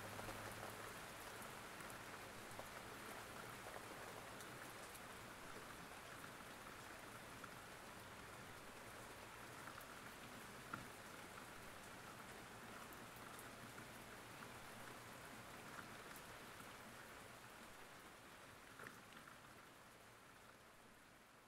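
Faint steady rain with the odd louder drop, slowly fading out.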